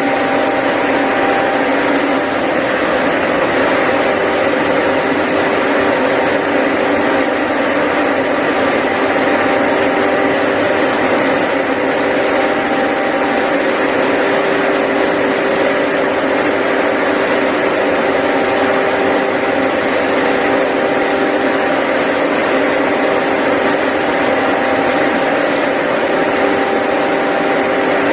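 Engine-driven X-Pro 9000 airless paint sprayer, its 9-horsepower engine running at a steady speed with a constant hum and hiss.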